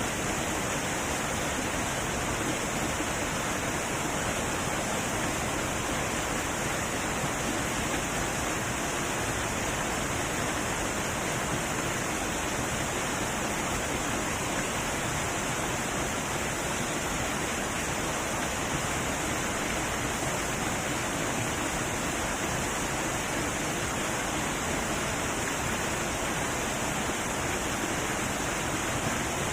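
Heavy waterfall rushing in a steady, unbroken roar of falling water.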